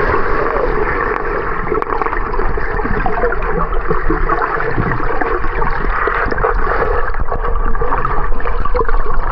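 Steady, loud rush and gurgle of moving water at a waterfall pool, with no let-up.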